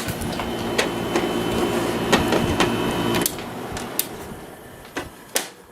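An 8000 BTU Fedders window air conditioner running with a steady compressor-and-fan hum, then switched off about three seconds in, the hum cutting out and the sound falling away. Sharp clicks from its controls being turned come several times during the shut-off.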